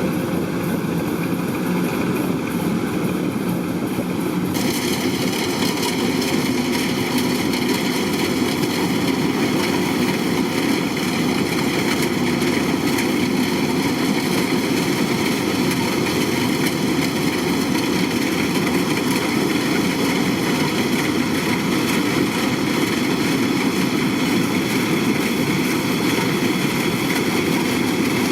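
Kubota DC-105X combine harvester's diesel engine and machinery running steadily. About four and a half seconds in, a set of higher, steady whining tones joins.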